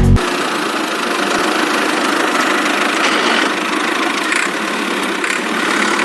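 A small motor running steadily with a dense mechanical buzz, typical of a homemade mini tractor's motor and drive.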